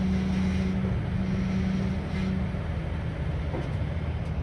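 Diesel locomotive engine running with a steady low hum as the train gets under way; about two and a half seconds in, its higher note stops and a lower hum carries on.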